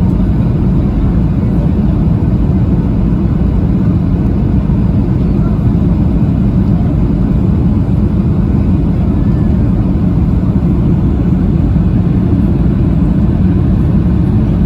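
Steady low rumble of an airliner's jet engines and airflow, heard from inside the passenger cabin during the landing.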